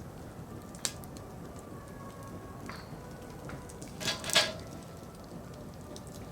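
Firewood burning in a campfire: a steady low rush of flames with scattered crackles, a sharp pop about a second in and a louder burst of crackling and popping about four seconds in.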